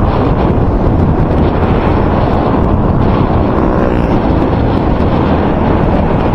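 Loud, steady wind noise buffeting a microphone that has been wrapped in electrical tape: a dense, low rumble that does not let up. The tape wrapping is not stopping the wind noise.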